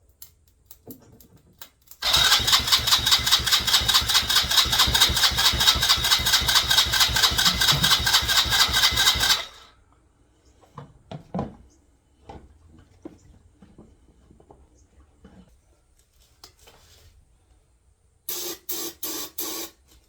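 A 110cc pit-bike engine being cranked over by its starter with a steady pulsing churn for about seven seconds, then stopping abruptly without catching. A brief second burst of cranking comes near the end.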